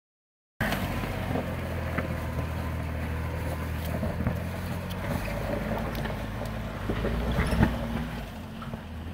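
Jeep engine running steadily at low revs with a low hum, starting abruptly about half a second in, with a few light knocks over it, the sharpest near the end.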